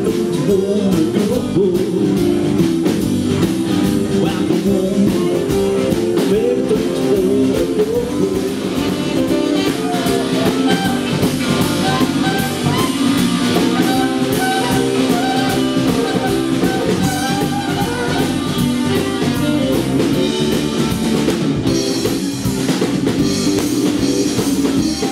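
Live rock band playing, with electric guitar, drum kit and singing.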